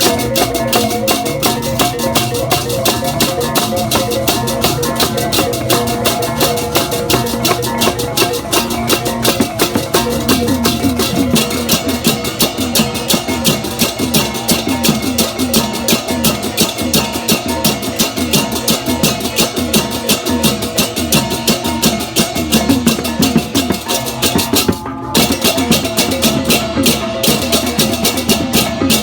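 Balinese gamelan playing: ringing bronze pitched tones held under a fast, dense rhythm of sharp percussion strokes, with drums. It dips briefly about 25 seconds in, then carries on.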